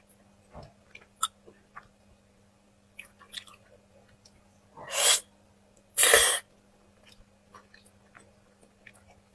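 Close-miked chewing: scattered small wet clicks and smacks of a mouth eating. About halfway through come two loud airy bursts, each about half a second long and a second apart.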